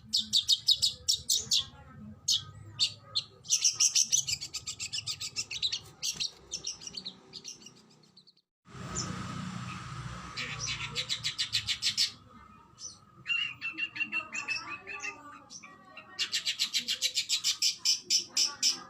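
Oriental magpie-robin (kacer) singing in rapid-fire bursts of high, quickly repeated notes, each run lasting a few seconds, with a brief break a little before halfway.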